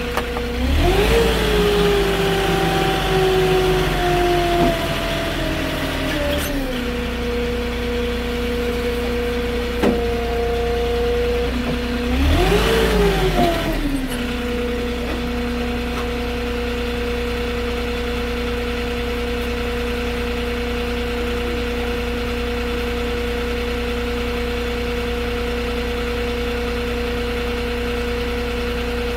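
Forklift engine revving up about a second in and slowly easing off, revving briefly again about 12 seconds in, then idling steadily.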